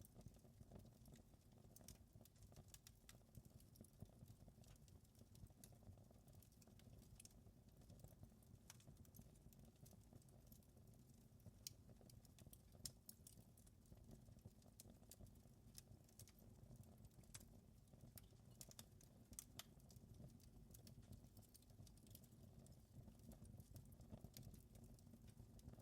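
Wood fire crackling faintly: scattered sharp pops and snaps over a low steady rumble.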